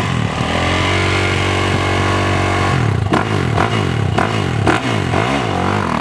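Motocross motorcycle engine running loud and steady, then revving up and down repeatedly from about halfway in as the throttle is worked on and off.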